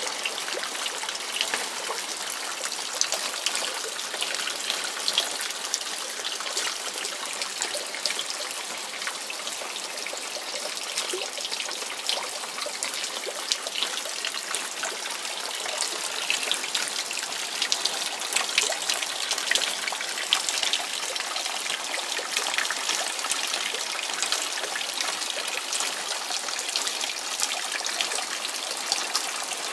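Steady rain falling, with dense drop impacts pattering on wet plastic and leaves, and a trickling stream of runoff water pouring down from above.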